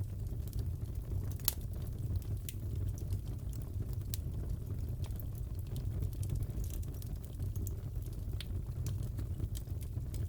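Crackling fireplace: wood fire with a steady low rumble and scattered sharp pops and crackles, one louder pop about a second and a half in.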